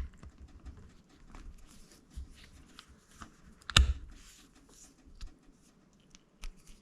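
Small metal kickstarter parts being handled and slid together by hand: scattered light clicks and rustles, with one sharper knock a little under four seconds in.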